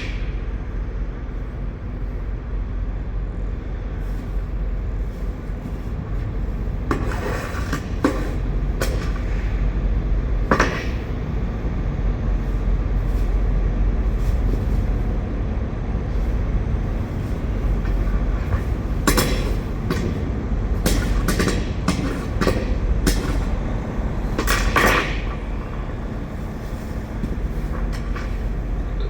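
Knocks and scrapes as leftover potatoes are pried loose and dropped inside an empty truck trailer, over a steady low rumble. The knocks come in a few at a time, with a busier spell past the middle.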